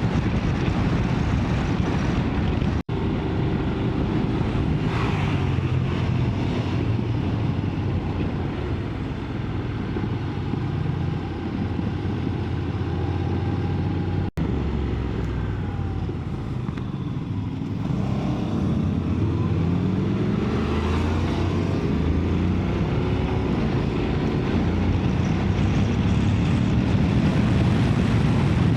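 Motorcycle engine running under way, its revs rising and falling through the gears, with wind rushing over the microphone.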